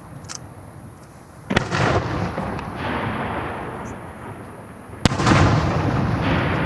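Aerial firework shells bursting: two sharp bangs about three and a half seconds apart, each followed by a long rolling echo, the second louder.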